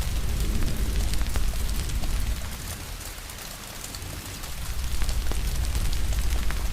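Steady rain hiss mixed with a wood fire crackling, sharp pops scattered through it over a deep low rumble. The rumble eases off for a couple of seconds in the middle, then comes back.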